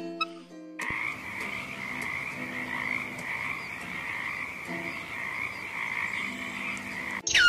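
A continuous trilling animal chorus that starts about a second in and runs steadily for about six seconds, with no breaks.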